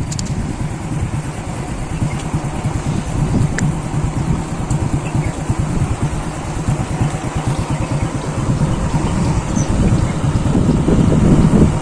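Motorcycle engine running steadily while riding, a dense low rumble with fine even pulsing.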